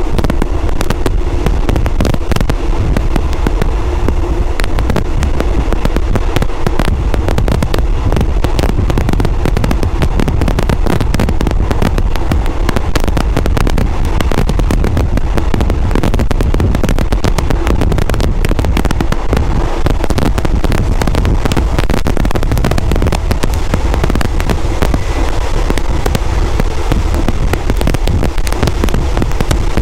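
Moving passenger train heard from inside the coach: a loud, steady rumble with dense crackling rattle throughout.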